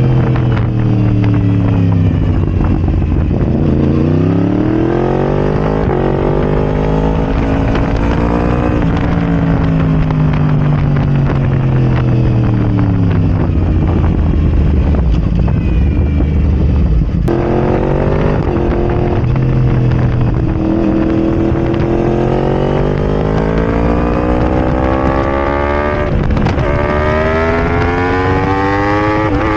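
Yamaha R1's crossplane inline-four through a de-catted Arrow Racing exhaust, its engine pitch falling, rising and falling again, then cutting sharply about two-thirds through and climbing again in steps, as when the bike is ridden through the gears and eased off.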